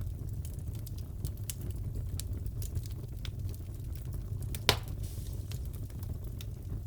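Wood fire crackling in a fireplace, with a steady low rumble and scattered small pops. One loud crack comes about two-thirds of the way in.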